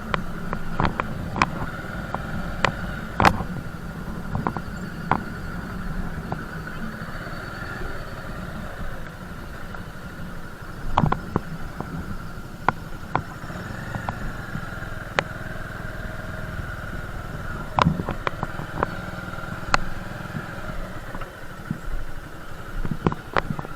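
Motorcycle engine running steadily at low speed, with scattered sharp clicks and knocks throughout.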